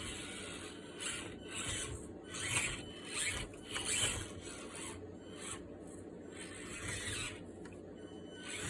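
Axial SCX24 1/24-scale RC crawler's small electric motor and gears whining in short bursts as the throttle is blipped, some bursts rising in pitch.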